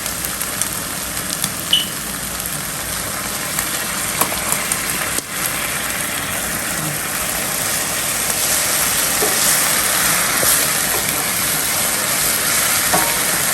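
Onion and sauce sizzling steadily in a hot frying pan just after soy sauce has gone in, with a few light clicks of a utensil; the sizzle grows a little louder about eight seconds in.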